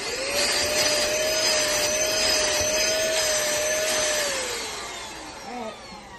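Cordless handheld vacuum cleaner (pemacom) switched on: the motor spins up into a steady high whine with a rush of air, then is switched off about four seconds in and winds down with a falling pitch.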